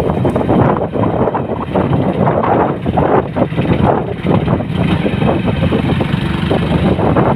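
A vehicle on the move: a loud, steady rumble of engine and road noise that flutters irregularly.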